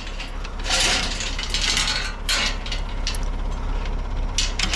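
Metal chain rattling and clinking in several short bursts as it is handled and wrapped for a lift, over the steady low hum of a backhoe engine idling.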